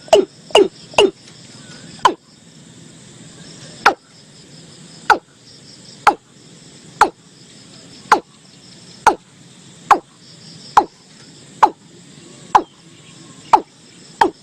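Watercock calling: a series of short, sharp notes, each dropping quickly in pitch. A few quick notes come about a second in, then the calls slow to about one a second and quicken again near the end.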